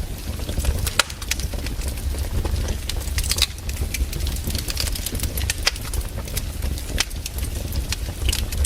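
Wood fire crackling, with irregular sharp pops and snaps of burning firewood over a steady low rumble.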